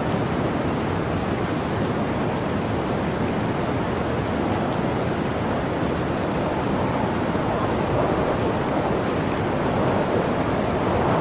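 Howling blizzard wind: a steady rushing noise that swells in slow gusts, with a gust building near the end.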